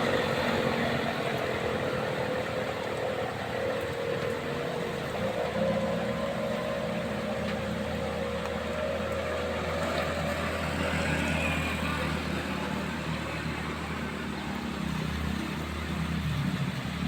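Vehicle engine running steadily as traffic climbs a steep hill, over a steady hiss of rain and wet road.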